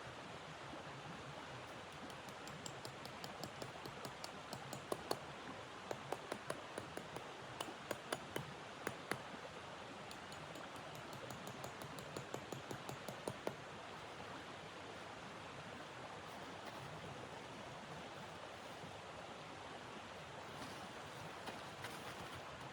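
Wood fire crackling with many sharp, irregular pops and snaps over a steady rushing hiss. The pops thin out after about fourteen seconds.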